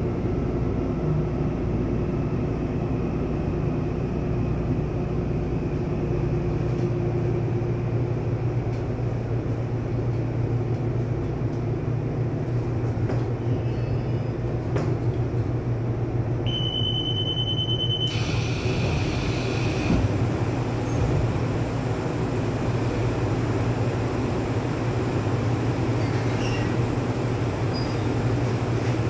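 Interior sound of a commuter electric multiple-unit train: a steady low hum throughout. About sixteen seconds in, a short high-pitched tone sounds for a second or two and cuts off sharply, followed by a brief hiss.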